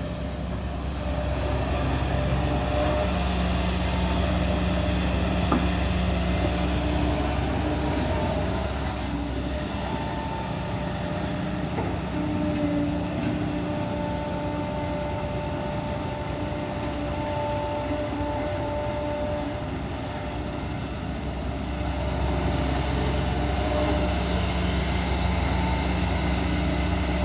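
Kobelco SK140 hydraulic excavator working under load as it digs soil and loads a dump truck: a steady diesel drone with a whine that comes and goes, louder in spells as the arm works.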